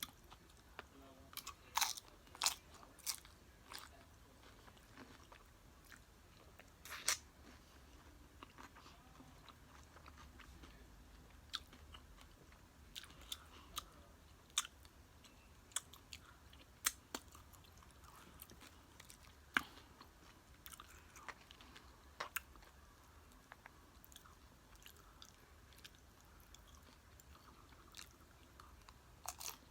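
Mouth chewing and crunching nacho tortilla chips close to the microphone: irregular sharp crunches every second or two over a quiet background.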